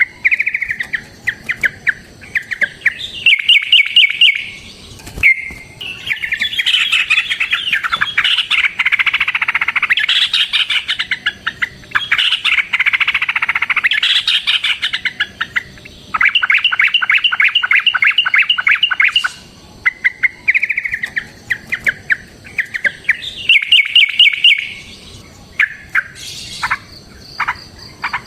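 Yellow-vented bulbuls calling loudly in long rapid trills of repeated notes, run after run with short pauses between them. Through the middle the calls pile up into a dense, overlapping stretch of chatter.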